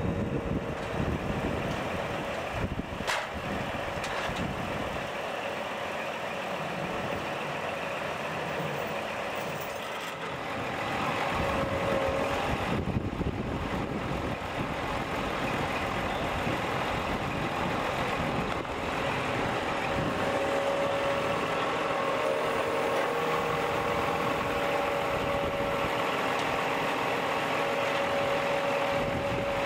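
Heavy diesel engine of a truck or work machine running steadily, growing a little louder about ten seconds in.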